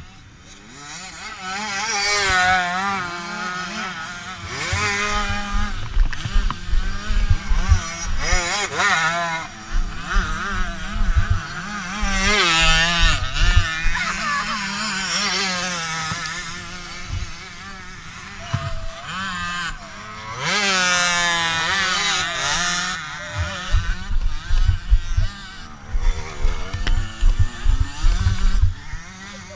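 Motocross dirt bike engines revving up and down as the bikes ride the track, with loud rising-and-falling passes about two seconds in, around the middle, and about two-thirds of the way through.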